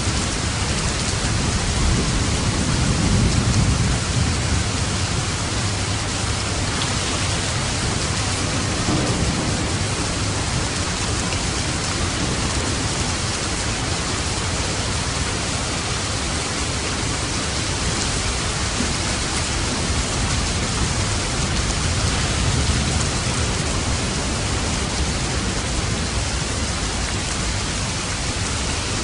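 Steady heavy rain with light, distant thunder rumbling low under it, swelling about three seconds in and again near the end.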